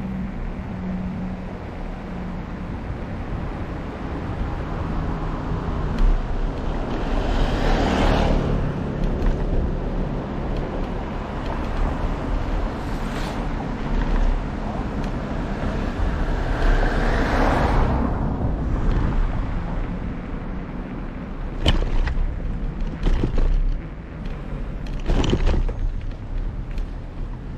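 Steady low rumble of wind and road noise while riding a bicycle, with two motor vehicles passing close by, about eight and seventeen seconds in. A few sharp clicks near the end.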